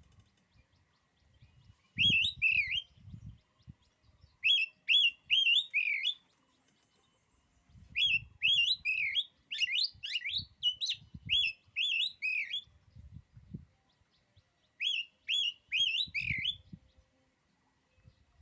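Oriental magpie-robin (kacer) singing: four phrases of quick whistled notes sweeping up and down, with short pauses between them and the third phrase the longest. Faint low thuds sound under the song.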